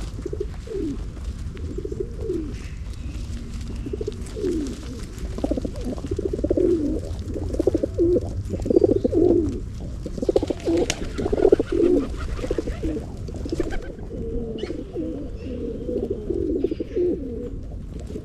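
Several pigeons cooing continuously, their calls overlapping one another, over a steady low rumble.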